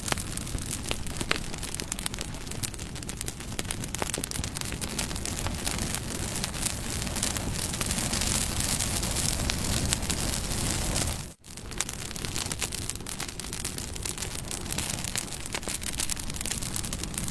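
Bonfire burning, a steady rush of flames with many sharp crackles and pops from the wood. The sound cuts out for a split second about two-thirds of the way through, then carries on.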